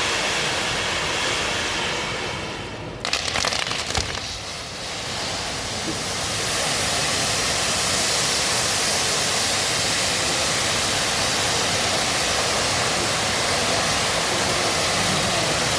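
Fireworks display: a brief run of rapid crackling about three seconds in, then a steady rushing hiss of fireworks going off.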